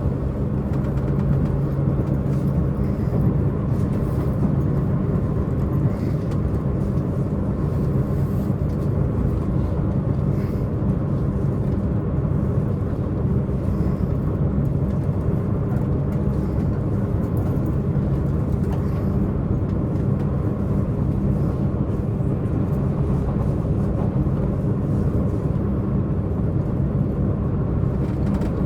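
Diesel engine of a Tze-Chiang diesel multiple unit running steadily under load at speed, with the rumble of the wheels on the rails, heard from inside the passenger car.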